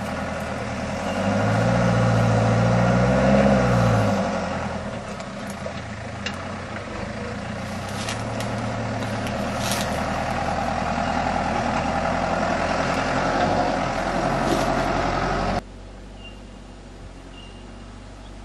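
Range Rover 4x4's engine revving under load as it crawls up a rutted dirt track. The engine note rises about a second in and falls back around four seconds, then runs steadily with a few sharp knocks. Near the end the sound drops suddenly to a quieter engine.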